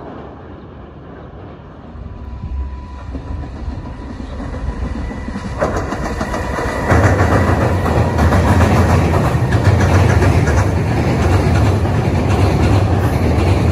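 Electric freight locomotive and container wagons crossing a steel truss railway bridge. The rumble and clatter of the wheels grows from about two seconds in, then turns suddenly louder at about seven seconds as the train runs onto the steel span. It then stays a loud, steady rumble with rattling.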